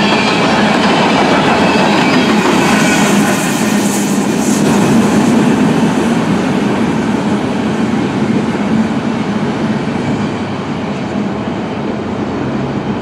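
Loaded coal hopper cars of a freight train rolling past, a steady rumble and clatter of steel wheels on rail. A faint wheel squeal is heard in the first couple of seconds. The sound gradually fades as the last car passes and moves away.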